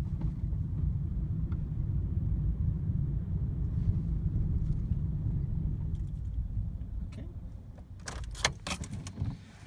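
A car's low, steady running rumble that fades away about seven seconds in, as the car comes to a stop. A quick run of clicks and rattles follows near the end.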